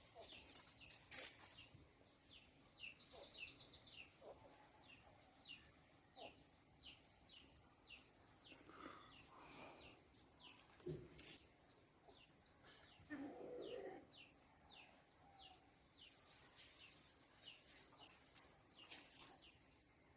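Faint bird calls: a short, high chirp repeated about twice a second, with a brief rapid trill about three seconds in. A few faint knocks are heard in between.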